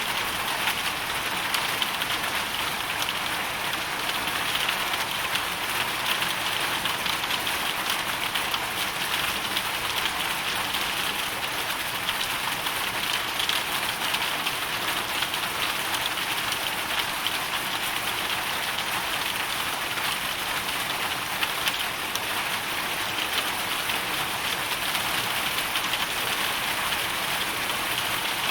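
Hail and rain pelting a hard surface in a steady, dense patter of many small ticks, with no let-up.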